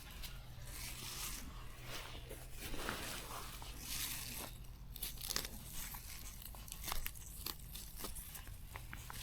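Grass and weeds being pulled up and torn by hand: irregular scratchy bursts with sharp snaps, the loudest about five and seven seconds in.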